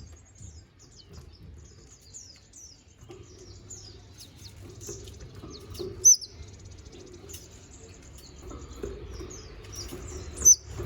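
Konin songbird singing a fast, varied string of high thin chirps, trills and twitters, the full song of imitated notes that bird keepers call 'full isian'. Two louder sharp notes stand out, about six seconds in and near the end.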